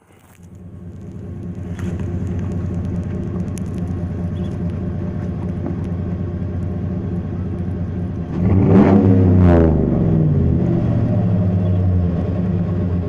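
GMC Sierra 2500HD pickup's engine running steadily, building up over the first couple of seconds. It is revved once about eight seconds in, rising in pitch and louder, then falls back to idle.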